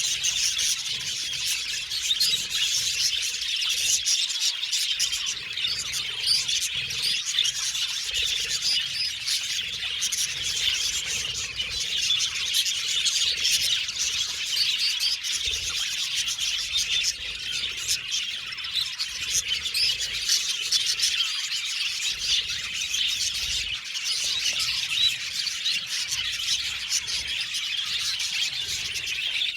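Budgerigars chirping and chattering without pause, a dense stream of overlapping high chirps.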